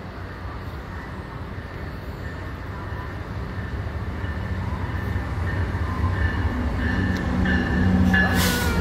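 MARC commuter train approaching the station, its rumble getting steadily louder, with a thin high tone coming in over the second half and a short hiss near the end.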